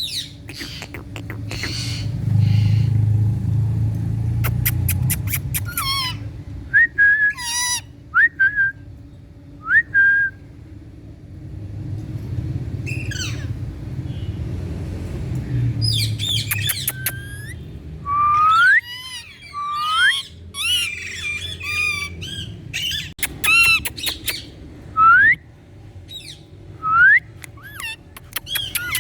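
Indian ringneck parrot calling in bouts: short rising whistles, squawking chatter and sharp clicks, with pauses between bursts.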